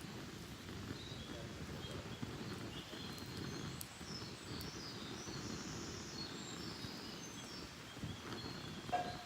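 Wild birds chirping, many short high calls scattered over a steady low rumble of outdoor background noise. A brief, louder sound comes near the end.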